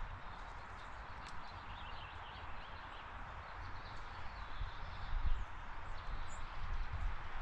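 Outdoor backyard ambience: a few faint, short bird chirps over a steady hiss, with an uneven low rumble underneath.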